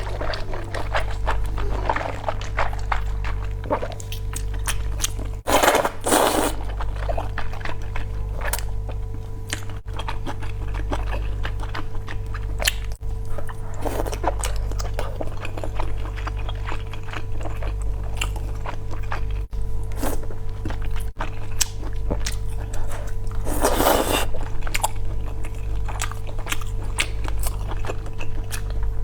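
Close-up eating of spicy noodles: many small wet chewing clicks and a few louder slurps, over steady background music.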